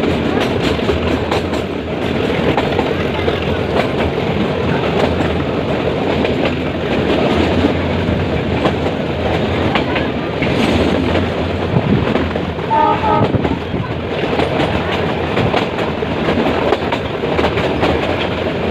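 Metre-gauge passenger train running, heard from aboard: a steady rumble with wheels clacking over the rail joints, and a brief high tone about thirteen seconds in.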